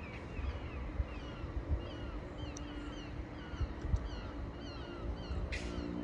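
A flock of birds calling, many short falling calls overlapping, over a low outdoor rumble; a short hiss comes about five and a half seconds in.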